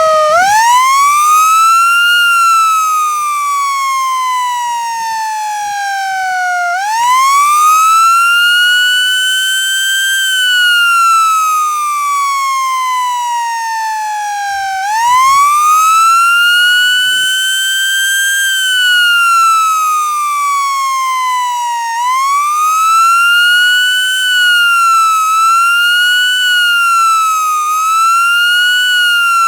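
FS 28H siren sounding: its pitch climbs and sinks in long slow wails, rising again about 7 and 15 seconds in. From about 22 seconds in it switches to a quicker rise and fall, roughly every second and a half.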